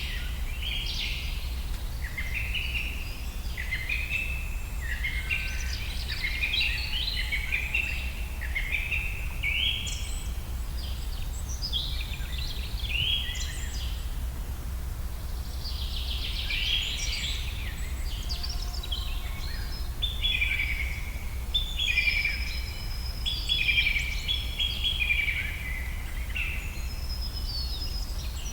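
Several songbirds singing together in a forest, many short overlapping whistled phrases and chirps one after another, over a steady low rumble.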